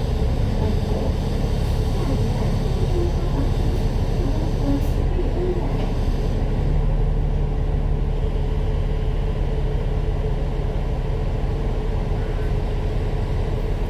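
Citybus bus running on the road, heard from inside the cabin: a steady engine and road rumble with a faint steady whine above it.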